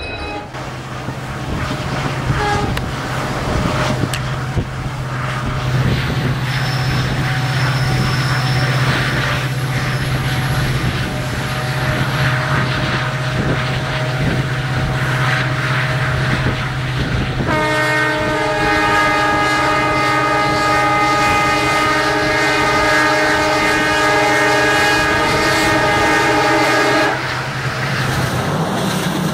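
WDG4 diesel locomotive's EMD two-stroke V16 engine running with a steady low drone as it hauls its train past, with wheel clatter. Its horn sounds one long blast of about ten seconds, starting a little past halfway through.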